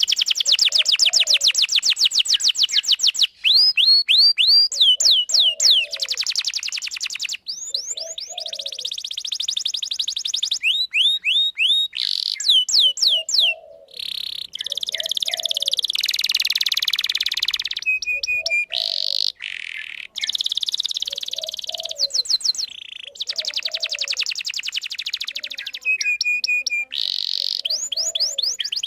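Canary singing a long, fast song of rapid trills, rolls and repeated chirping notes, in phrases that stop and start suddenly.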